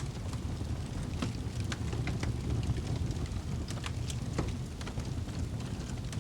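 Wood fire burning in a fireplace: a steady low rumble of the flames, with irregular sharp crackles and pops from the burning logs, several a second.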